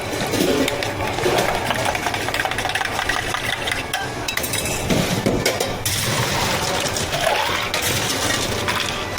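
Busy clinking and clattering of cups, utensils and containers as drinks are made behind a bubble tea counter: many small knocks and chinks over a steady background din.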